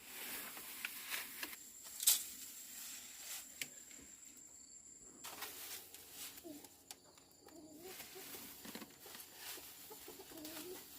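Chickens clucking softly, among scattered rustles and clicks, with one sharp click about two seconds in.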